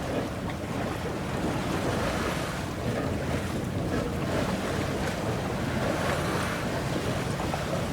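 Wind buffeting the microphone over water washing around a sailboat, a steady rushing noise without a break.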